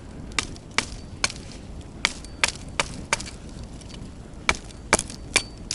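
Wood being chopped: about ten sharp strikes at an uneven pace, with a pause a little past the middle.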